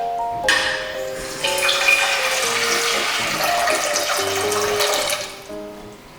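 Water running from a tap, starting about half a second in and stopping near the end, over soft background music.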